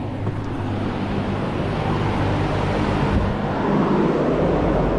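Duramax diesel V8 in the race truck running just after its first start, a steady low engine note under a broad rush of noise that swells near the end.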